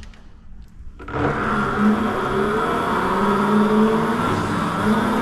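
Ebox dragster mini bike running under way, starting suddenly about a second in: a steady wavering hum over a rushing noise.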